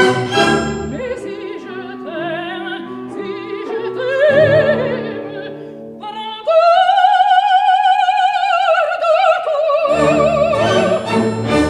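Operatic singing with wide vibrato over an orchestra, the voice holding one long high note for about three seconds midway; near the end the orchestra comes in louder with sharp accented chords.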